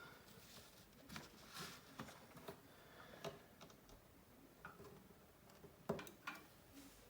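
Faint, irregular small clicks and taps of hand tools working on the opened Samsung Galaxy Note 3's frame and parts, with a sharper pair of clicks about six seconds in.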